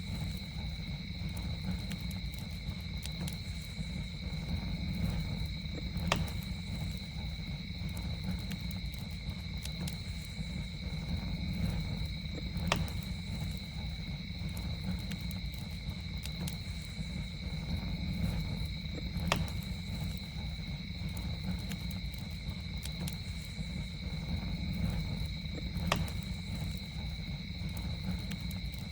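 Campfire burning with a steady low rumble and scattered small crackles, and four sharper pops spaced evenly through it. Under it runs a steady high drone of night insects in two tones.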